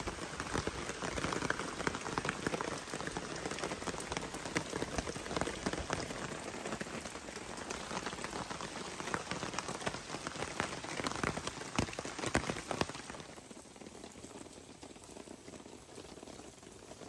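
Heavy rain pattering steadily, thick with small drip clicks; about thirteen seconds in it drops to a quieter, softer hiss.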